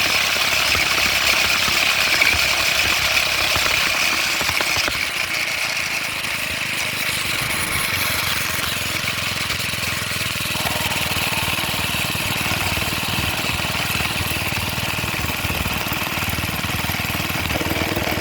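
Minibike's small gasoline engine running steadily, its firing heard as a rapid low pulsing, a little quieter after about five seconds.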